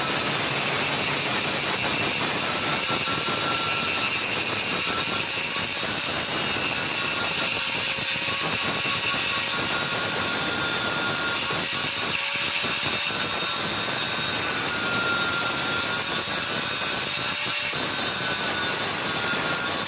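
Stick welding with an E6013 electrode: the arc's steady crackling hiss runs without a break.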